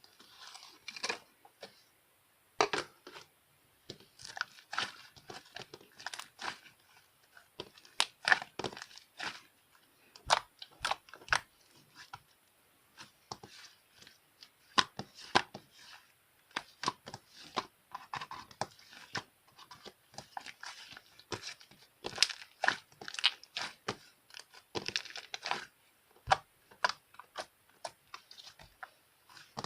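Slime being pressed, poked and stretched by hand, giving irregular crackling, popping and clicking sounds.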